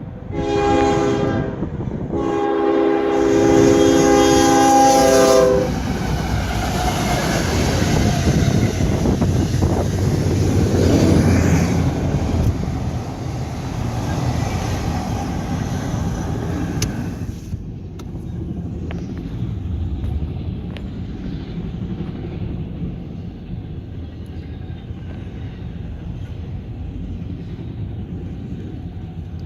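Freight locomotive air horn sounding two blasts, the second longer, as the lead locomotive passes close by with loud engine and rail noise. About eighteen seconds in this drops to a steady rumble and rail clatter from the autorack cars rolling past.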